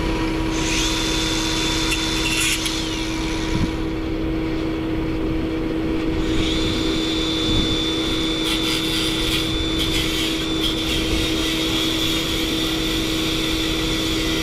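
Steady machine hum with a constant tone. Twice it is joined by a hissing noise with a faint high whistle: briefly near the start, then for about nine seconds from the middle on.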